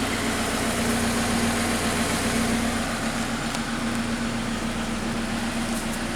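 Scion FR-S's 2.0-litre flat-four boxer engine idling steadily, with an even hum.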